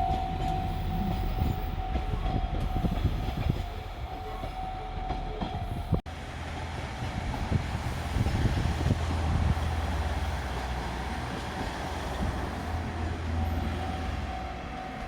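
A diesel train running past a level crossing, its wheels clattering over the rail joints with a low rumble, while the crossing's warning bell rings a steady repeating tone. The sound cuts abruptly about six seconds in.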